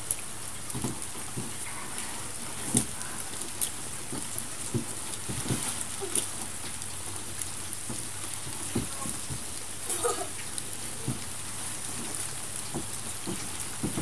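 Steady rain falling, an even hiss with scattered sharp taps of drops landing close by.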